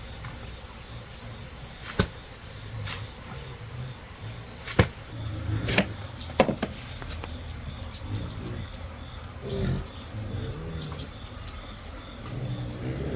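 Steady high-pitched insect trill, with about five sharp knocks spread through the first half.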